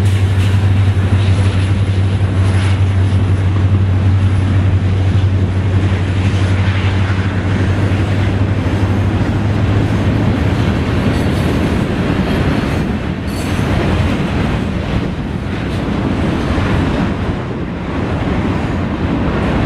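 Norfolk Southern freight train passing close by. The diesel locomotives' steady low engine hum fades out about halfway through, leaving the noise of covered hoppers and boxcars rolling past on the rails.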